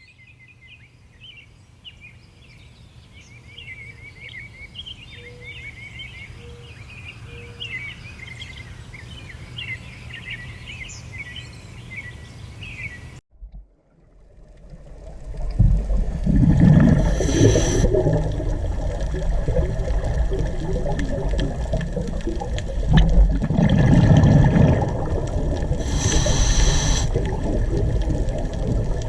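Small birds chirping over a low, steady hum. After a sudden cut, loud rumbling outdoor noise takes over, with two brief hissing bursts about four seconds and thirteen seconds later.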